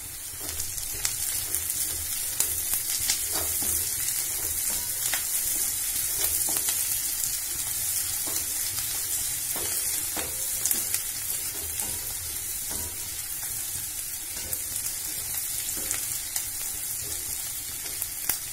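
Chopped capsicum and onion sizzling in butter in a wok, with a steady hiss, while a plastic slotted spatula stirs them, scraping and tapping against the pan many times.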